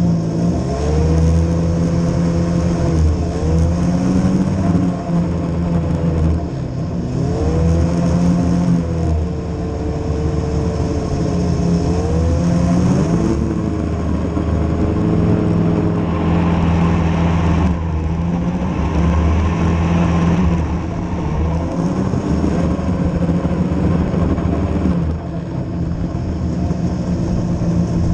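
A vehicle engine runs through a snowy ride with repeated throttle changes. Its pitch climbs and drops again every few seconds as it revs up and eases off.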